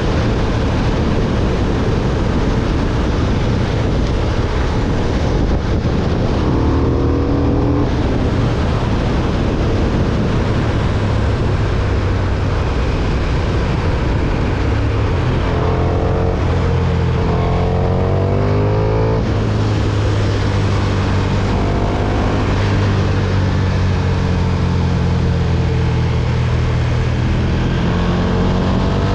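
KTM 1290 Super Duke R's V-twin engine under way, heavily masked by wind rush on the camera microphone. The engine note rises in pitch three times as the bike accelerates: about six seconds in, again around the middle, and near the end.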